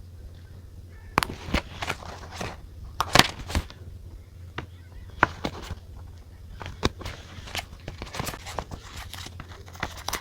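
Desk journaling sounds: irregular light taps, clicks and brief rustles of paper and stationery being handled, the loudest about three seconds in, over a low steady hum.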